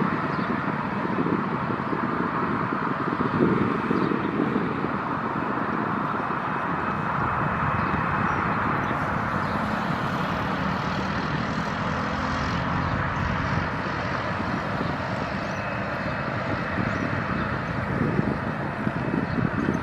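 Boeing 737-800's CFM56-7B jet engines running steadily at low power, heard as a steady rushing whine while the airliner taxis after landing. Gusts of wind hit the microphone with low rumbles near the start and again near the end.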